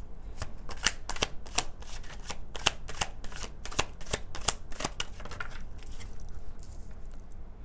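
Tarot cards being shuffled by hand: a quick, irregular run of card snaps and slaps for about five seconds, then quieter handling.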